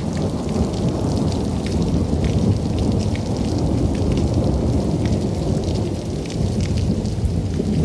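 Steady rain falling with a continuous low rumble of thunder, with many small drop hits.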